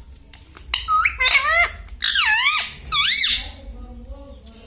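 Indian ring-necked parrot giving high-pitched calls that sweep up and down in pitch, several in quick succession from about a second in, after a few faint clicks.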